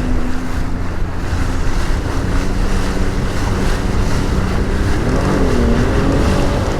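Sea-Doo Fish Pro Trophy personal watercraft running across rough, choppy water, with heavy wind noise on the microphone and rushing water. The engine's steady hum dips and then climbs again near the end.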